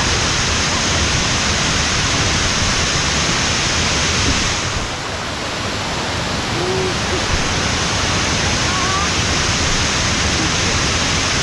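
A waterfall's rushing water makes a steady, loud, even noise. It eases briefly about halfway through.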